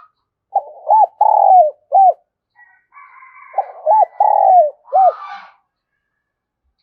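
Spotted dove cooing: two phrases of four coos each, a short note, a longer drawn-out one and two short ones, about three seconds apart.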